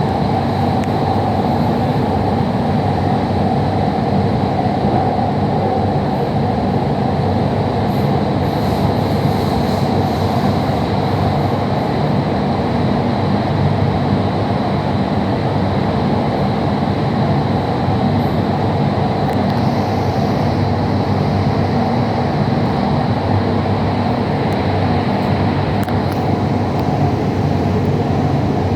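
Metro train running at speed between stations, heard from inside the carriage: a steady, even rumble of wheels and running gear.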